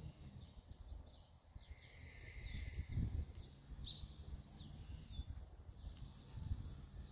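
Birds chirping now and then over a low, uneven rumble.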